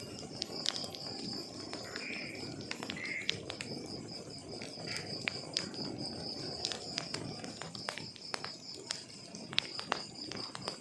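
Wood fire crackling: irregular sharp pops and snaps over a low rushing burn, with a steady high-pitched pulsing trill behind it.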